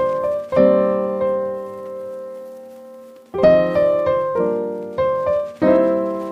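Background piano music: slow chords struck and left to fade, one held for a few seconds before the chords resume.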